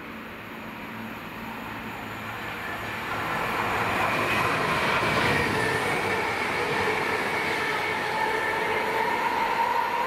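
Class 165 diesel multiple unit approaching and running past close by. Its engine and wheel noise grows louder over the first four seconds, then holds steady with a whine running through it.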